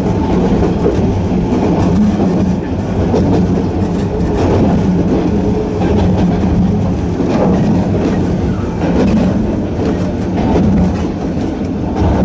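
Narrow-gauge electric train of the Sangi Railway Hokusei Line running steadily, with a continuous low hum from its nose-suspended traction motors.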